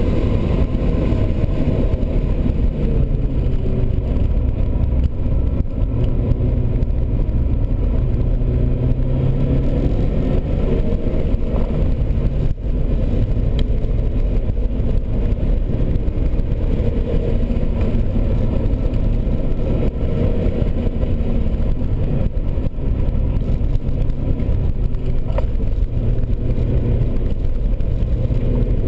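Porsche sports car's engine heard from inside the cabin while lapping a race circuit, loud and continuous with road noise, its pitch rising and falling as the driver accelerates and lifts.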